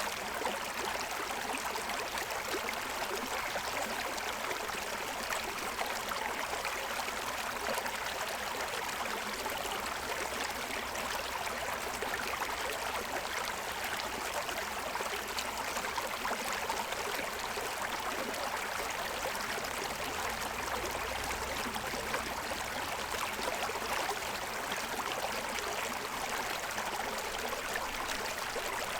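Forest stream running steadily over a stony bed, with constant rushing and fine splashing and gurgling.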